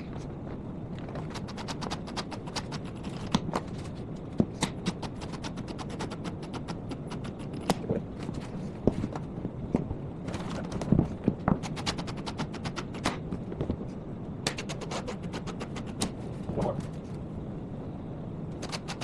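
Cordless impact driver rattling in several bursts of rapid hammering clicks while driving screws, with pauses between the bursts.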